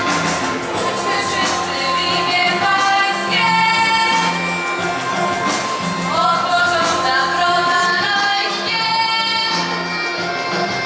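Live performance of a Polish Christmas carol (kolęda): voices singing long held notes over a musical accompaniment.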